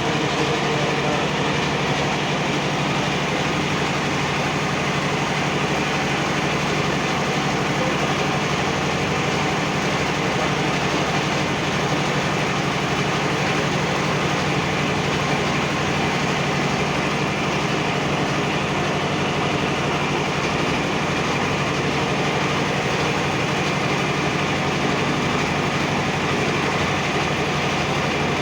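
A boat's engine running steadily, a constant drone with a strong low hum that does not change.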